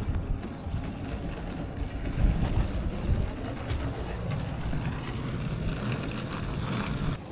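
Airport shuttle bus running, a steady low rumble of engine and cabin noise.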